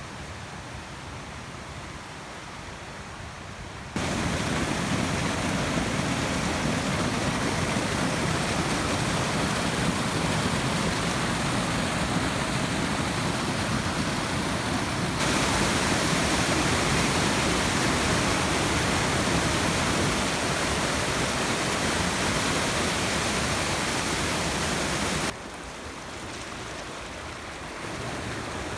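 Hurricane storm noise: a steady, loud rush of wind and water with no distinct events, in separate stretches that cut in abruptly, louder from about four seconds in, brighter from about fifteen seconds, and quieter again near the end.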